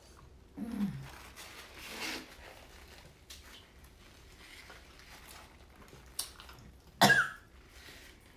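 A woman coughing and clearing her throat: a short throaty cough about a second in, another near two seconds, and a sharp, loud cough near the end, set off by spicy food.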